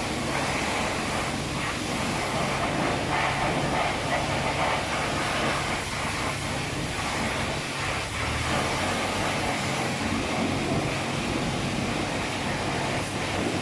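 Car wash running over an SUV, heard from inside the cabin: a steady rushing of water spray and machinery over a low hum.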